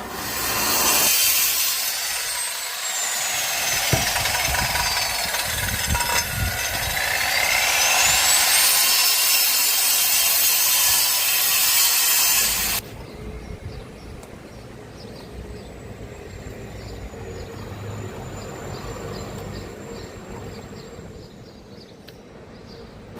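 A power tool cutting: a loud, harsh noise whose high whine slides down and then back up, stopping abruptly about 13 seconds in. A much quieter steady hum with a faint high tone follows.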